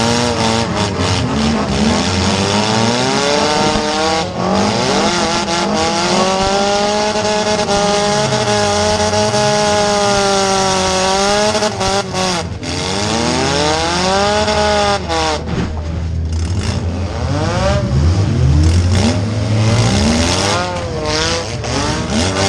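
Four-cylinder demolition derby car engine revving hard up and down, held high for a few seconds in the middle before dropping off, heard from inside the stripped cabin. Sharp knocks and bangs of car-to-car hits break in at several points.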